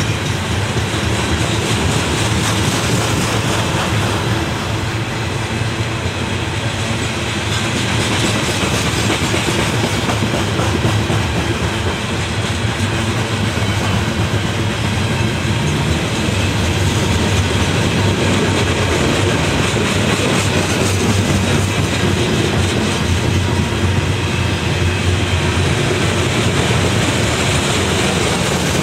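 Railroad cars of a passing train rolling along the track, a loud steady noise of wheels on rail that does not let up.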